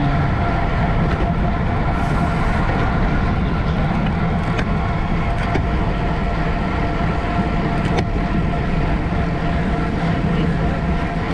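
Steady rushing wind and road noise with a low rumble, a faint steady whine and a few faint clicks.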